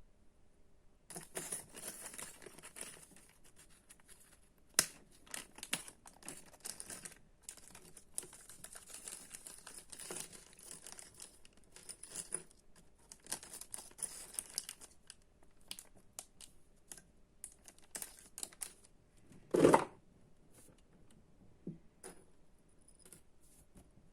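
Crinkling and tearing of plastic packaging, in irregular bursts of rustling with small clicks, most of it in the first fifteen seconds. A single louder thump comes just before twenty seconds in.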